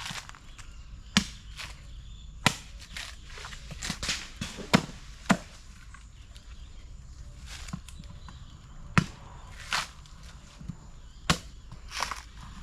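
Cutlass (machete) chopping into a coconut husk: a series of about ten sharp, irregular strikes, roughly one every second or so, as the coconut is shaped.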